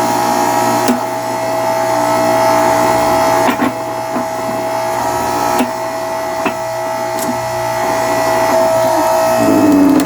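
Electric hydraulic log splitter running, its motor and pump giving a steady whine, with a few sharp cracks as the wood gives way under the wedge. The sound of the machine shifts lower near the end.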